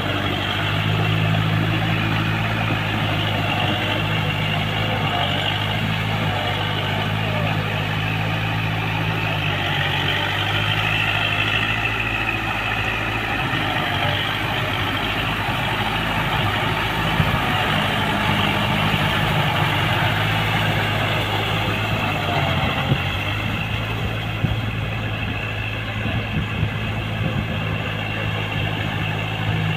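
Kubota MU4501 tractor's four-cylinder diesel engine running steadily at work. Its even note blurs and wavers for several seconds midway, then settles again, with a few sharp knocks in the second half.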